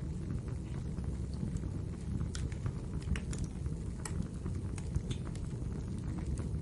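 Wood fire burning in a fireplace: a steady low rumble of flame with scattered sharp crackles and pops, several close together in the middle.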